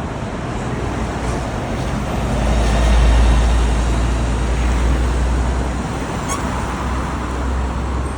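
Street traffic rumble, swelling to its loudest about three seconds in as a vehicle passes close, then easing back.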